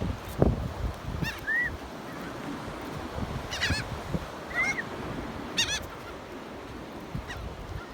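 Gulls calling: short, harsh cries repeated in groups of two or three every second or so. A low thump about half a second in.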